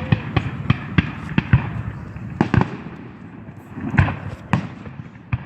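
Fireworks and firecrackers going off: a rapid, irregular string of sharp bangs and crackles over a steady haze of noise, with a louder burst about four seconds in.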